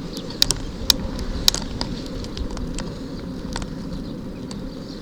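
Bicycle rolling along a towpath: a steady rumble of tyres and wind, with scattered sharp clicks and ticks at irregular intervals.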